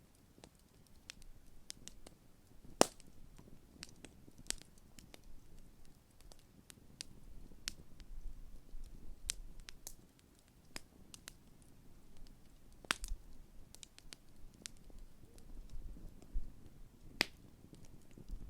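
Large wood campfire crackling: irregular sharp pops and snaps over a low rush of burning flames, with one loud pop about three seconds in and two more strong pops later on.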